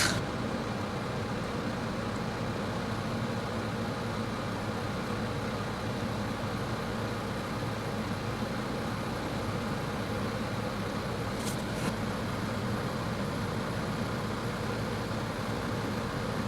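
Steady low hum and hiss, with two faint short clicks about eleven and a half seconds in.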